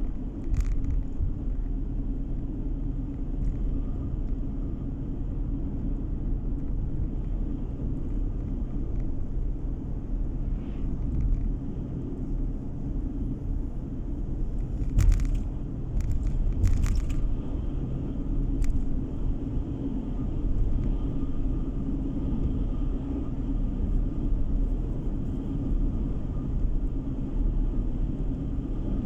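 A car driving along a road: a steady low rumble of engine and tyre noise. A few short sharp knocks or rattles come about halfway through.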